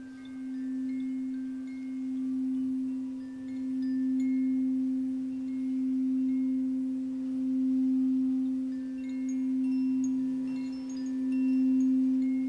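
A singing bowl holding one steady low tone that swells and fades about every two seconds, with wind chimes tinkling scattered high notes over it.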